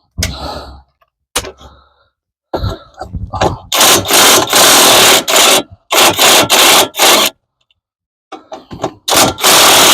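Cordless impact wrench with a 15 mm socket hammering in loud bursts, the first about two seconds long, loosening a front brake caliper bolt. Metal clinks and scraping of the socket being fitted come first.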